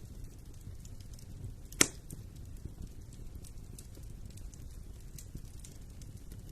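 Wood fire in a fireplace crackling over a low, steady rumble, with scattered small crackles and one loud, sharp pop a little under two seconds in.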